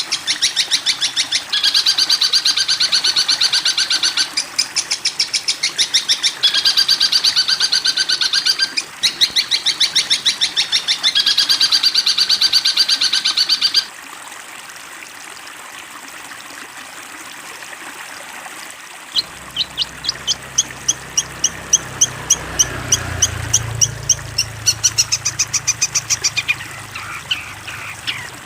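Recorded bird calls: fast chattering trills in bursts of about two seconds for the first half, then after a quieter spell a series of sharp, evenly repeated chipping notes, two or three a second.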